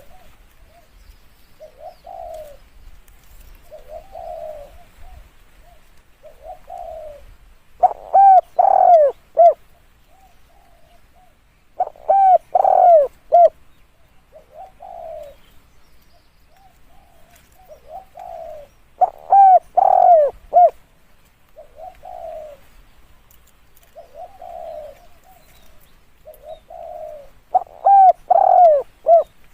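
Spotted dove cooing: four loud phrases of several coos each, with softer single coos about every two seconds in between.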